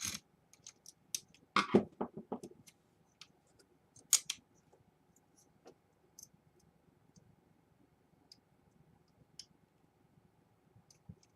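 Scattered small clicks and scrapes of hands working small parts inside an opened laptop, with a cluster of louder clicks about two seconds in and a sharp one about four seconds in.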